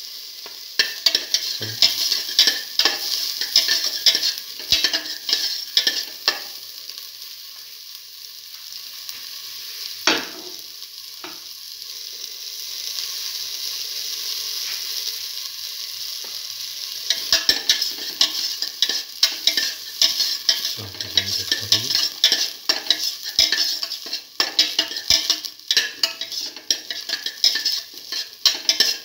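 Sliced onion, shallots and ginger sizzling in hot oil in a stainless steel pot, with a utensil clicking and scraping against the metal as they are stirred. The stirring stops for several seconds in the middle, leaving the steady sizzle, then starts again.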